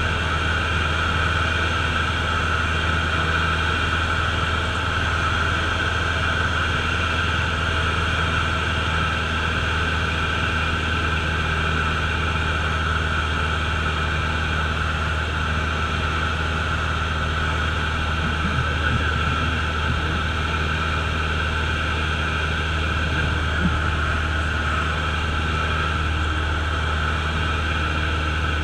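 Steady drone of a Cessna's single piston engine and propeller heard from inside the cockpit at a constant power setting, a deep hum with a steady higher whine over it.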